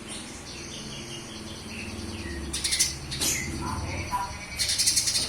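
Cucak kinoy singing: a run of short whistled notes and chirps, broken by harsh, hissy rasps at about two and a half seconds and again near the end.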